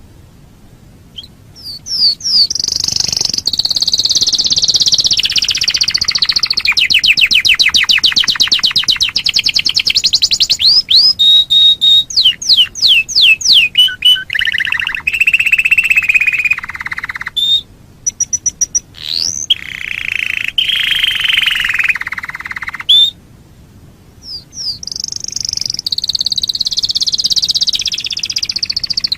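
Canary singing a long song of fast trills and rapidly repeated high notes, with brief pauses near the start and again about three-quarters of the way through.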